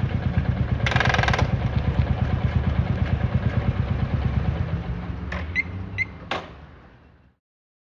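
Harley-Davidson Fat Boy Lo's V-twin running at a low, pulsing idle that fades away to silence near the end, with a brief hiss about a second in and a few sharp clicks just before it dies out.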